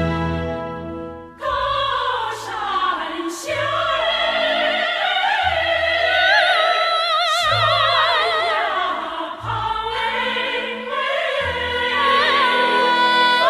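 Chinese national-style song: a held instrumental chord fades out about a second in, then a woman sings long notes with wide vibrato over orchestral accompaniment.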